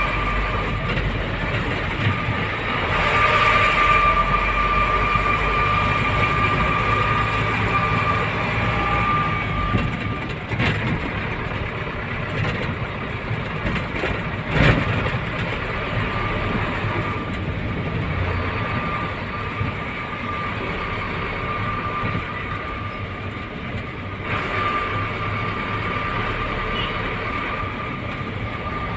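Inside the cab of a moving Isuzu Forward truck: steady engine and road noise with a steady high whine that fades out around the middle and comes back later. A single jolt or knock about halfway through.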